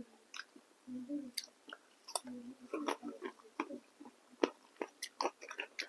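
Close-up chewing of a momo dumpling dipped in sauce: wet mouth clicks and smacks, irregular, several a second.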